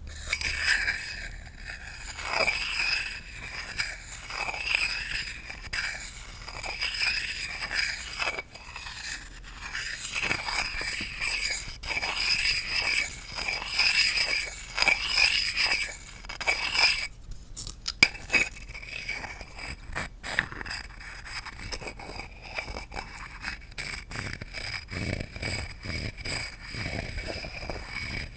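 Close-miked scratching and tapping on wooden objects. A steady scratchy rustle carries a faint ring, and a run of sharp separate taps comes about two-thirds of the way in.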